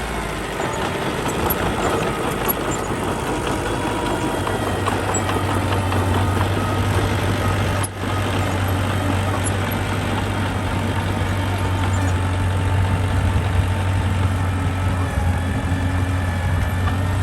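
Diesel engine of construction machinery running steadily with a deep, constant hum, briefly dropping out about eight seconds in.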